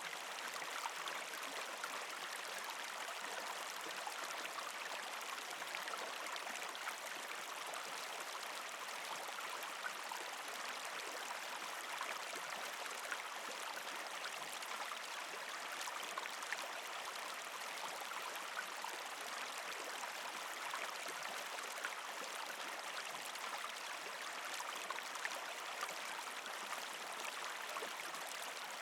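Partially frozen creek flowing over rocks: a steady rush of water, with many small sharp splashes and drips.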